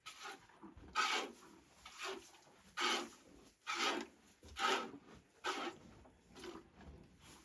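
A series of rough scraping or rasping strokes, the loudest five coming just under a second apart with weaker scrapes between them.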